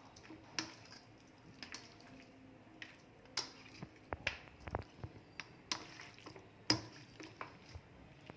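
Chicken pieces being mixed by hand in a wet marinade of lemon, soy sauce and vinegar: irregular squelches and sharp little clicks, several a second at times.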